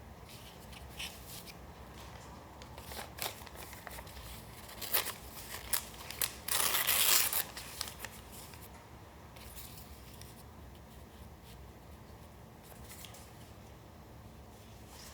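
Paper being handled and torn for a collage: scattered light rustles and taps, then about a second of louder tearing a little past the middle, followed by soft rustling.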